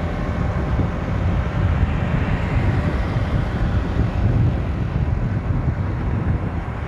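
Steady wind rush buffeting the microphone over the running noise of a motorcycle moving at road speed.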